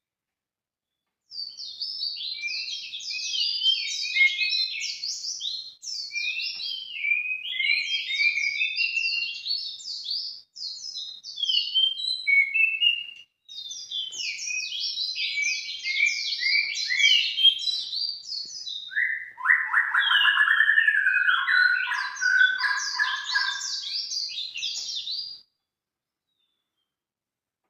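Bird song played as a lure call: fast twittering and chattering phrases, high-pitched, broken by a few brief dead-silent pauses, with a lower-pitched run of notes about two-thirds of the way through.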